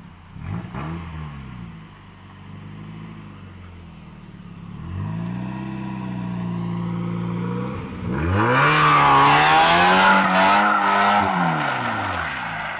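Mazda Miata's four-cylinder engine revving: a short blip about half a second in, revs rising and holding from about five seconds, then revved hard from about eight seconds with loud tyre squeal as the car is thrown into a slide, the revs dropping off near the end.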